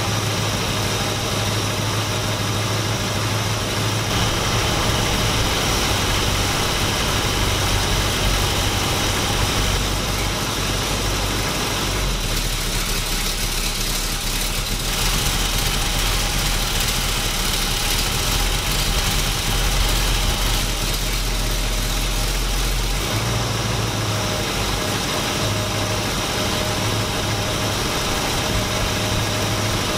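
Big block Chevy 454 V8 running steadily through its exhaust, freshly started, while the distributor is turned to set base timing. For about ten seconds in the middle its note goes deeper, then returns.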